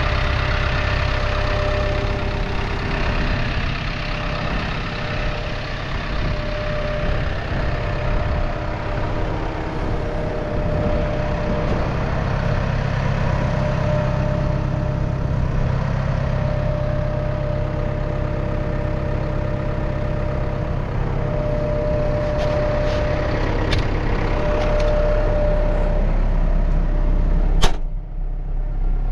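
Gehl V400 skid steer's diesel engine running steadily, with one sharp knock near the end.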